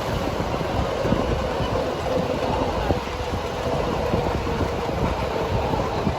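Miniature ride-on railway train running along its track: a steady rolling noise with irregular light clacks of wheels on rail joints and a faint steady whine.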